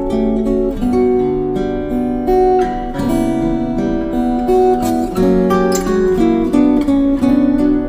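Background music played on acoustic guitar: a run of plucked and strummed notes at a steady, even loudness.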